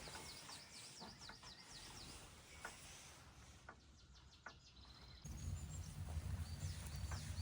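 Small birds chirping in the forest: a run of short, quick, downward-sweeping notes, some repeated in fast series. About five seconds in, a steady low rumble starts under them.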